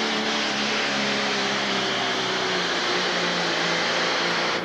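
Pro stock pulling tractor's turbocharged diesel engine running hard at high, steady revs under load during a pull, a loud, unbroken engine noise.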